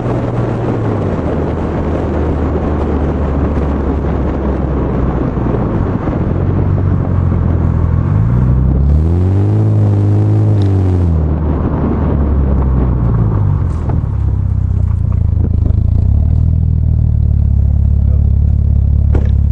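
Car exhaust heard close from the boot lid: a steady low engine drone under rushing road and wind noise. About eight seconds in, the revs rise, hold briefly and drop back down.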